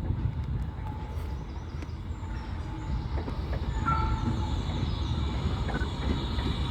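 A steam-hauled freight train rumbling along the track, the noise building slowly, with a short high squeal about four seconds in.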